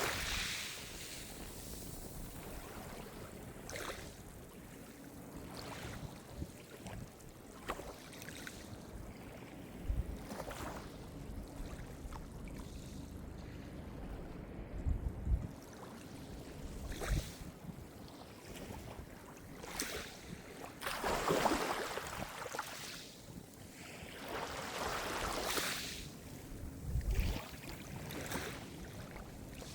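Calm sea surf: small waves breaking and washing in every few seconds, with the biggest wash about two-thirds of the way through, and a few short low thumps between them.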